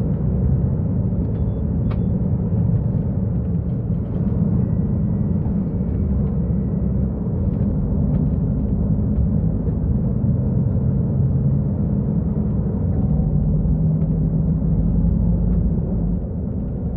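Mercedes-Benz O-500U city bus's diesel engine running, a steady low rumble whose pitch shifts up and down a few times as engine speed changes.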